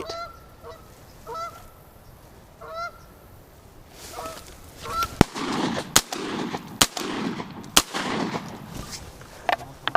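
Geese honking overhead, several separate calls, then four shotgun shots about a second apart, beginning about halfway through.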